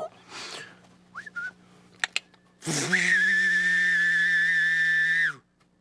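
A long steady whistle held at one pitch for about two and a half seconds, then cut off sharply. A brief rising chirp and a click come before it.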